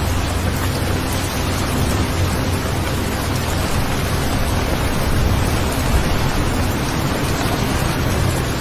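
Steady rain ambience: a continuous, even hiss of falling rain with no breaks or distinct drops standing out.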